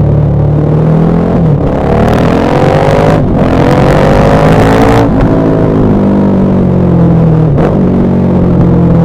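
KTM 1190 Adventure R's LC8 V-twin engine running under way, revs climbing in pitch and then dropping sharply about three seconds in and again about five seconds in, with another sharp change about seven and a half seconds in.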